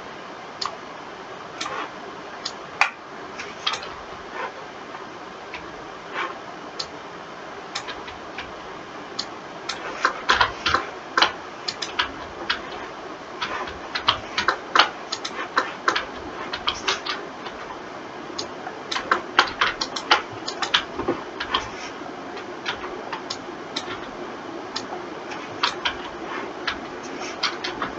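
Computer mouse and keyboard clicking irregularly, sometimes in quick runs of several clicks, as the animator works at the computer.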